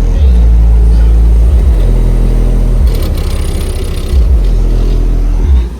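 Four 15-inch Slapz Audio subwoofers playing very loud, deep bass notes that hold and then step from one pitch to another. The bass cuts out abruptly at the very end.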